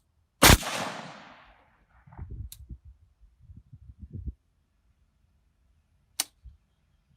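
A single shot from a 9mm AR-pattern carbine with a 10.5-inch barrel, firing 115-grain full metal jacket: a loud crack about half a second in, with an echo rolling off over about a second and a half. Low thumps follow, and a fainter sharp crack comes about six seconds in.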